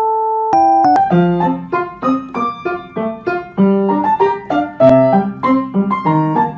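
Background piano music: a held chord, then from about a second in a brisk run of struck notes over a bass line.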